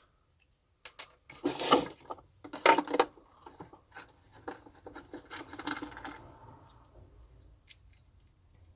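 Plastic vacuum cleaner housing and parts being handled while it is dismantled: two loud clattering knocks in the first few seconds, then softer scraping and rubbing that fades out.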